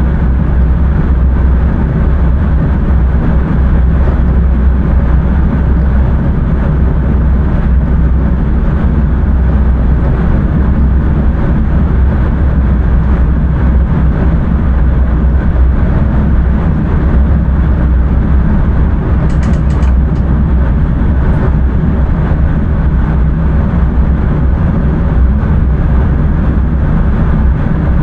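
Intercity train running at speed, heard inside the driver's cab: a loud, steady low rumble of wheels and running gear on the track, with two brief faint ticks about two-thirds of the way through.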